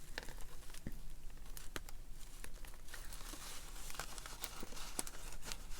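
Paper rustling and crinkling with scattered small clicks as the pages and paper pieces of a handmade junk journal are handled and pulled apart where they were pinned together.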